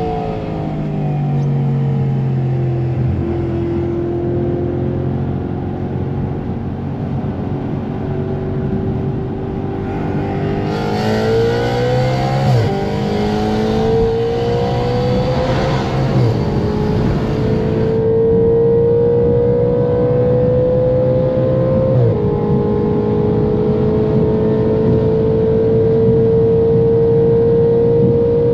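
Straight-piped 4.2-litre V8 of an Audi RS5 B8 pulling hard at speed, its note climbing steadily, with sharp dips in pitch at quick upshifts about halfway through, a few seconds later and again near the end, and each gear then taking longer to climb.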